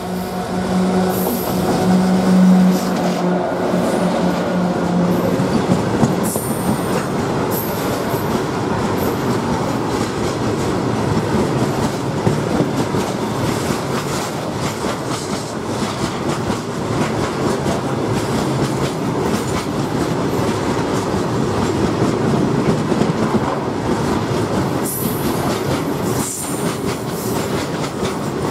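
Freight train passing close by: the WAG-7 electric locomotive goes past with a steady hum for the first few seconds, then a long run of loaded open freight wagons follows, their wheels clattering continuously over the rails with a few brief high squeals.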